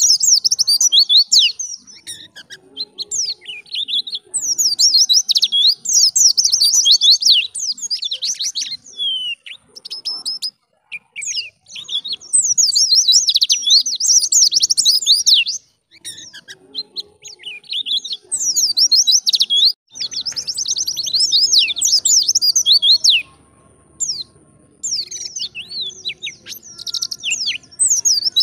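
White-eye (pleci) singing: long runs of rapid, high twittering chirps, broken by a few short pauses.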